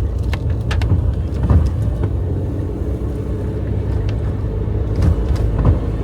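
Car driving slowly: a steady low engine and road rumble with scattered knocks and rattles.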